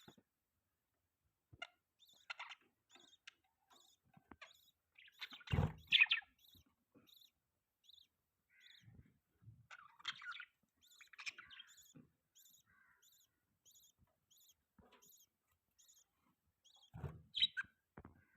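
Budgies chirping: a run of soft, short chirps repeating about twice a second, broken by louder bouts of chatter around six seconds and again around ten to eleven seconds. Two brief low thumps come near six seconds and near the end.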